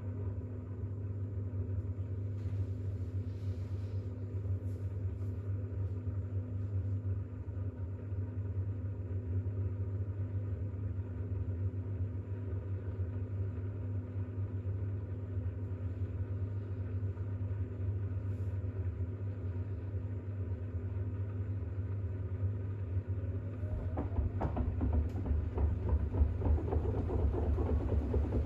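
Bosch WAX32GH1 washing machine spinning a towel load in its intermediate spin, with a steady motor hum. About 24 seconds in, a whine rises in pitch and the hum gets louder with a fast pulsing as the drum speeds up.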